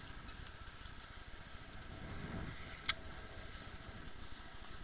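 Steady low rumble of wind and water on board a small motorboat, with one sharp click about three seconds in.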